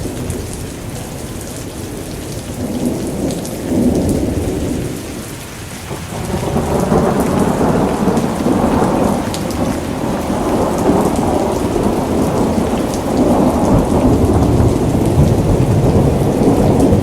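Steady rain with a deep rolling rumble of thunder that dips briefly, then swells about six seconds in and keeps rolling.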